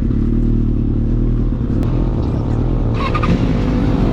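Motorcycle engine running at a steady pitch while riding, heard from on the bike.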